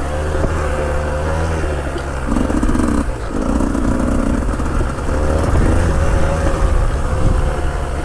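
Two-stroke motorcycle engine running with the throttle closed, engine-braking on full compression down a steep descent. Its pitch wavers a little, with a fuller note for a couple of seconds in the middle.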